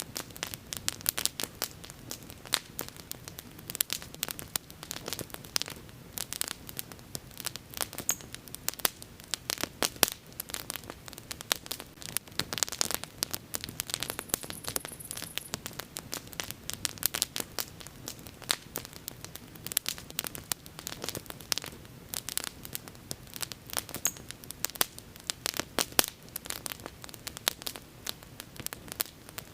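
Wood bonfire burning with continuous crackling: many sharp, irregular pops and snaps over a steady hiss of flame.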